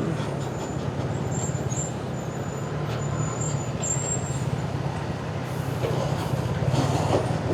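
Motorcycle running steadily on the road, its engine hum mixed with steady wind and road noise.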